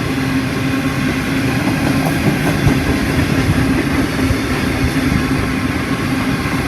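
Freight train rolling past close by: a steady rumble of wagon wheels on the rails with a constant low hum running under it.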